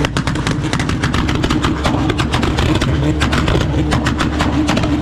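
A car engine running steadily, with rapid, irregular crackling throughout.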